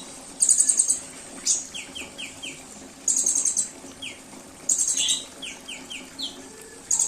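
Songbird calls: loud, very high, rapid trills about half a second long, repeated four times, with runs of three or four short falling whistled notes between them.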